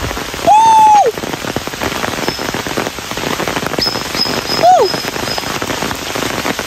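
Heavy rain falling on bamboo leaves and wet ground, a dense steady patter of drops. A short voiced call rings out about half a second in, held level and then dropping, and a second, falling call comes near five seconds.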